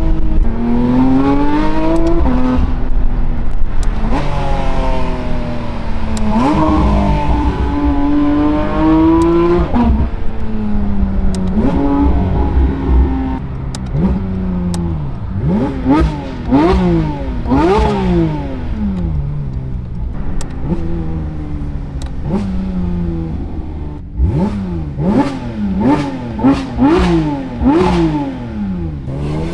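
Porsche 992 GT3 RS's naturally aspirated flat-six, breathing through a full titanium valved exhaust with race headers, pulling hard through the gears. The pitch climbs and drops back at each shift, and near the end there is a fast run of short rev rises and falls.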